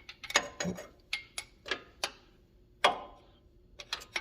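Irregular sharp metallic clicks and clinks of a hand wrench working on the turbo oil feed line fitting, which has been found loose and leaking oil.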